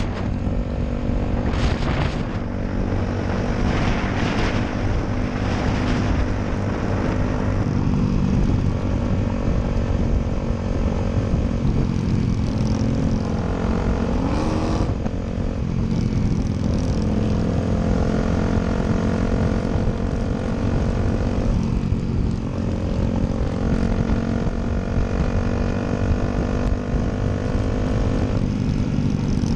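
Motorcycle engine running under way as the rider cruises, a steady droning note broken by about five short dips in pitch before it picks up again.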